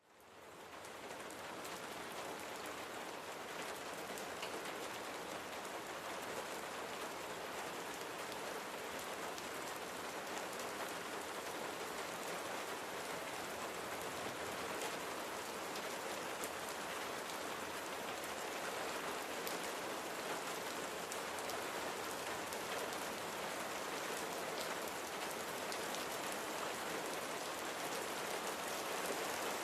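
Steady rain falling and pattering on a surface, with many small drop ticks; it fades in over the first second or so, then holds even.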